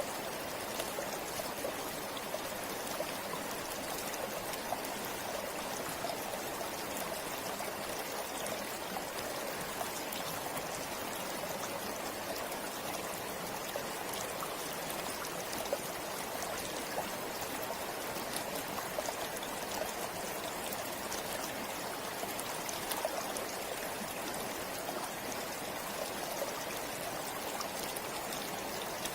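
River water flowing steadily over stones, a constant rush with small splashes and trickles throughout.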